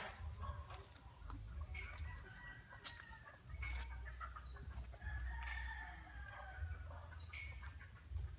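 Roosters crowing in long drawn-out calls, once about two seconds in and again from about five seconds in, with chickens clucking between them. A low rumble runs underneath.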